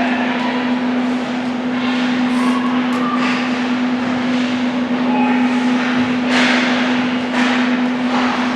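Ice hockey game in an arena: skates scraping and carving the ice and general play noise over a steady low hum, with a couple of louder scrapes near the end.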